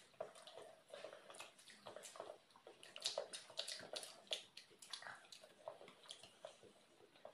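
Faint wet chewing and lip-smacking of people eating boiled eggs, with quick irregular clicks and smacks several times a second.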